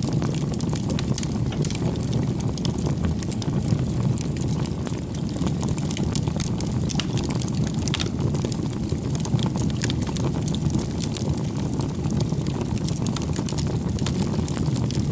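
Wood fire burning: a steady low rumble of flames with many small, sharp crackles and pops.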